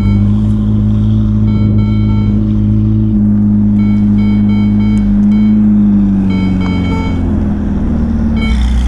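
Ferrari SF90 Spider's 4-litre twin-turbo V8 idling through a Novitec sports exhaust with flap-actuated rear mufflers, a steady burble that settles slightly lower near the end. Over it, from a second or two in, the car's repeating seatbelt-reminder chime beeps.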